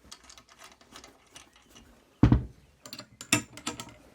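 Metal parts and hand tools handled on suspension work: a run of small clicks and taps, a loud knock a little over two seconds in, then a quick cluster of sharp clicks.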